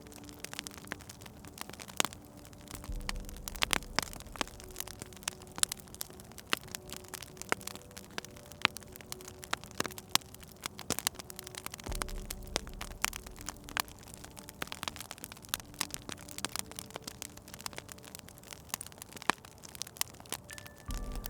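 Wood fire in a fireplace crackling, with irregular sharp pops and snaps, a few much louder than the rest, over a soft hiss. A low rumble swells briefly a few times.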